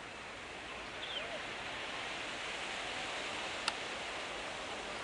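Steady outdoor rushing hiss that swells slightly, with a faint short bird chirp about a second in and a single sharp click past the middle.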